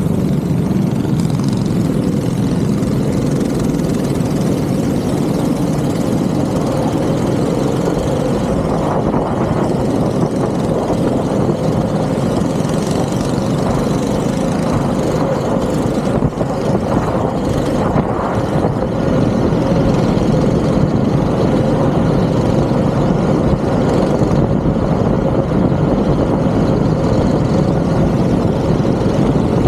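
Go-kart engine running continuously on track, its note rising and falling a little as the kart accelerates and lifts through corners.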